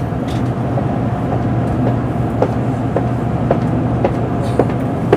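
Steady low hum inside a Shinkansen bullet train carriage as it departs from the platform, with faint short clicks now and then.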